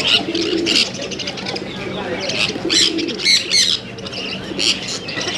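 Many caged birds chirping: short, high calls come in quick overlapping clusters, with lower calls underneath.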